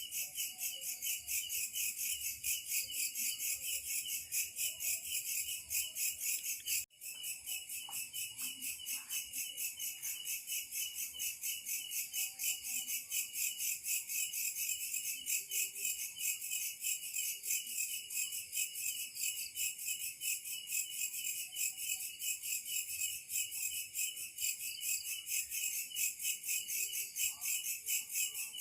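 A dense chorus of insects, crickets or katydids, shrilling in a fast, even pulse. It drops out for an instant about seven seconds in.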